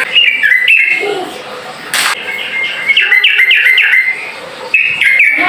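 Yellow-vented bulbul (trucukan) calling in quick phrases of short, chattering notes. There is one sharp click about two seconds in.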